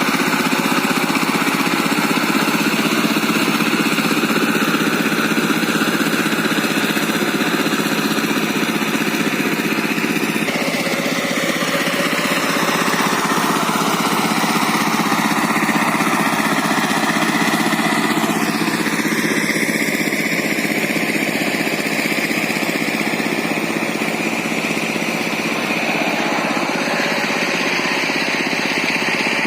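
Single-cylinder diesel engine of a walking tractor with a rotary tiller mounted, running steadily under load while tilling. Its sound shifts about a third of the way in.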